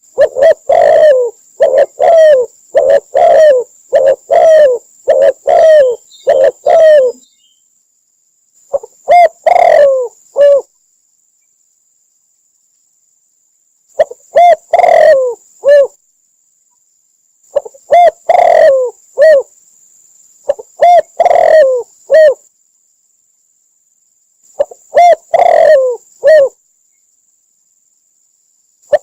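Spotted dove cooing: a quick run of about a dozen coos over the first seven seconds, then short phrases of three or four coos every few seconds with silent gaps between.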